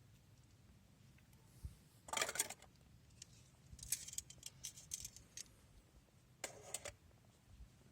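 Small hard objects being handled, clinking and rattling in short clusters: one about two seconds in, a longer run of clicks a second or so later, and another near the end.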